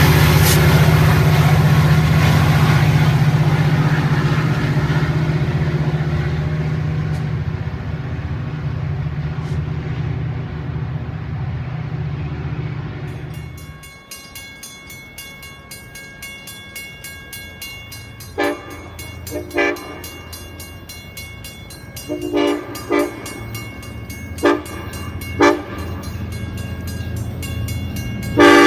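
Metra diesel locomotive's engine drones as the commuter train pulls away, fading over about thirteen seconds. The sound then drops off abruptly, and a distant approaching locomotive sounds its air horn in about six short blasts, growing louder, with a long loud blast starting near the end.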